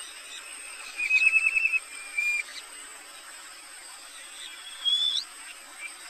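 Wild birdsong: a rapid trill about a second in, a short single note, then a clear whistled note rising at its end near five seconds, over a steady high-pitched insect hiss.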